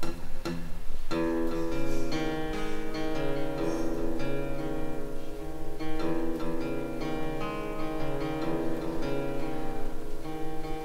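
Acoustic guitar playing a song's instrumental introduction, chords plucked and strummed without singing.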